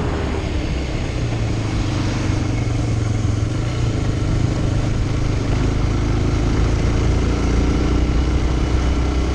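Motorcycle engine running at a steady cruise under a continuous rush of noise, its pitch shifting slightly a couple of times.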